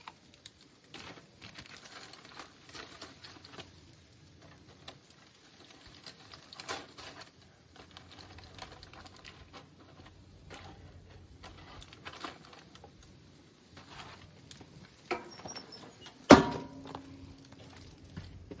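Metal utensils clicking and clattering against a grill as food is taken off, with one loud metallic clank near the end that rings briefly.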